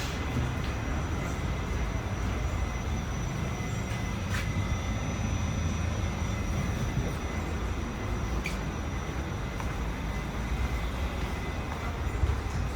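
Steady low rumble inside an R46 subway car standing at the platform, from the car's running equipment and ventilation, with a faint click about four seconds in.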